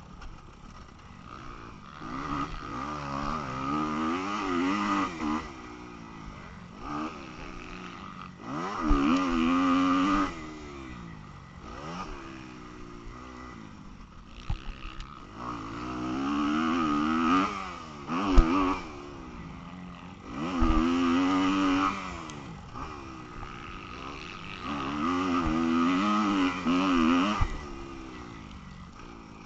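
Motocross bike engine revving hard and backing off in about five bursts of a few seconds each, its pitch climbing and falling with every burst. There is one sharp knock about eighteen seconds in.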